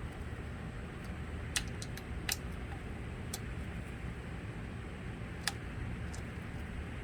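A few sharp, scattered metallic clicks of hand tools working the engine case bolts, over a steady low background hum.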